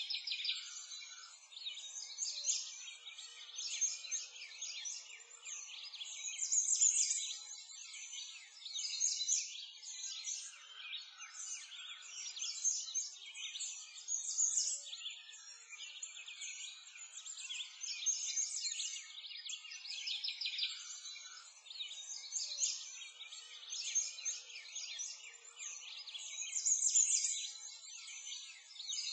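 Many small birds chirping and singing at once, a dense chorus of overlapping high chirps and trills that swells and eases every few seconds.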